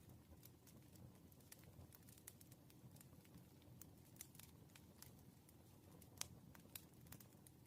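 Wood fire crackling: irregular small pops and snaps over a soft steady low rumble, with the sharpest pop about six seconds in.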